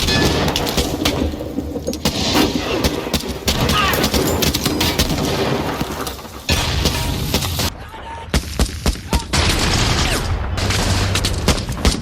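Film soundtrack of World War II small-arms fire: a dense fusillade of many overlapping shots, changing abruptly about six and a half seconds in and again near eight seconds, then separate sharp shots fired several a second.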